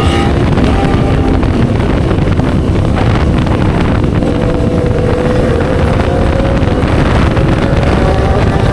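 Motorcycle with a racing exhaust riding along, with wind noise on the microphone. The engine note drops at the start, then climbs slowly through the second half as the bike speeds up.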